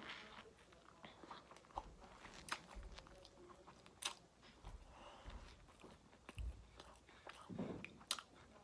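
Faint chewing of a crispy fried chicken sandwich: soft crunches and mouth noises with scattered small clicks.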